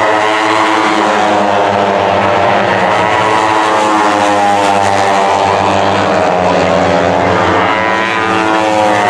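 Superbike race engines running at high revs, several bikes at once, their pitch rising and falling as the riders accelerate, brake and change gear.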